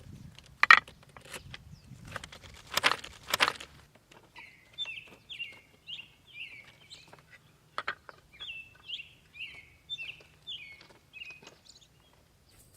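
A few loud knocks or crunches in the first four seconds, then a bird calling a short falling note over and over, about twice a second, for around seven seconds, among faint ticks and taps.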